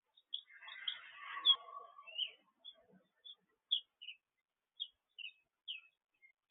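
Small birds chirping: short, high chirps repeated every half second or so. A fuller, rougher burst of lower sound from about half a second to two seconds in, probably another bird's chatter, stands out as the loudest part.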